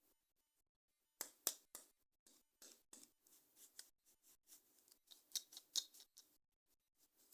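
Toy packaging and plastic parts handled close to the microphone: scattered small crackles and clicks, louder in two short clusters about a second in and past the middle.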